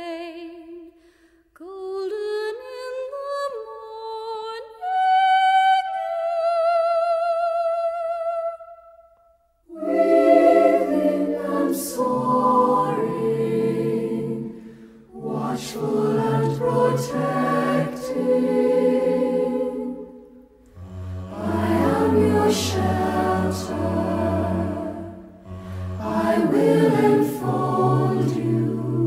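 Vocal music: a single voice sings a melody with vibrato, then, after a short break about ten seconds in, a choir enters singing in several parts, with a low held note underneath in the later part.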